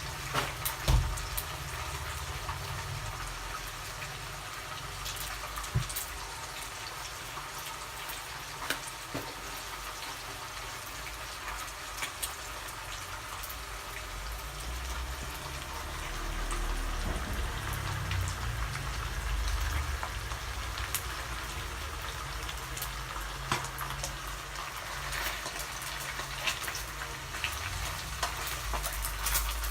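Pieces of sun-dried cobia frying in hot oil: a steady sizzle with scattered pops and crackles.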